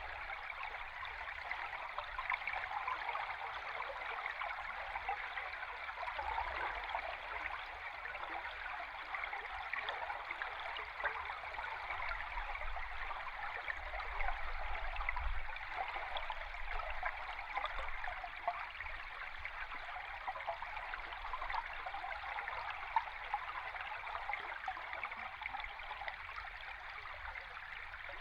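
River stream water heard underwater: a steady rush with fine crackling running through it.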